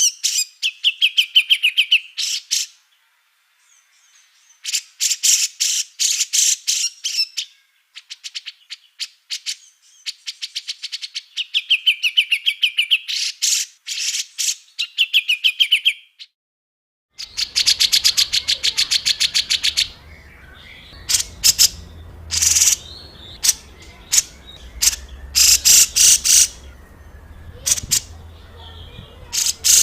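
Small songbird song in harsh, rapid chattering bursts of sharp high notes, each burst lasting one to three seconds with short pauses between, some ending in a buzzy trill. About 17 seconds in, a different recording takes over, with a low hum beneath shorter, sharper notes.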